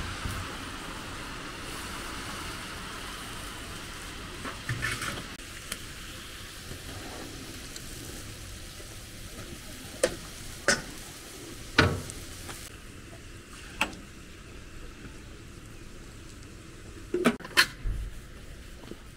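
Food frying in a large cooking pot with a steady sizzle, and a few sharp knocks scattered through, near the middle and twice close together near the end.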